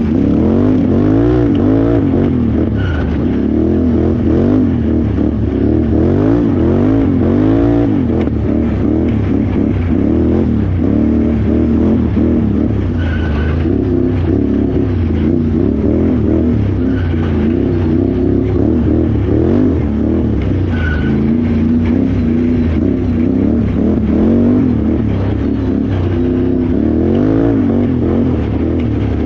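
Can-Am Renegade XXC 1000R's V-twin engine under racing load, the revs climbing and dropping about once a second in stretches and holding steadier in between.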